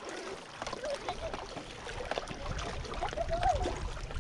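Small waves lapping at the reservoir shoreline, with wind rumbling on the microphone, stronger in the second half. Faint voices are heard about three seconds in.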